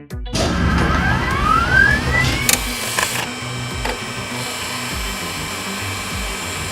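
Cartoon transformation sound effect: a mechanical whine rising in pitch, a few sharp clanks, then a steady electric whirring as the vehicle changes shape.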